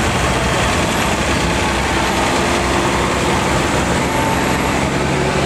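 Steady, unbroken rumble of vehicle traffic and running engines, loud throughout, with no single event standing out.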